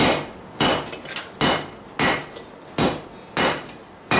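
Hand hammer striking a knife blade on the edge of a Vulcan 90-pound cast-iron anvil: seven blows at an even pace, each with a short ring.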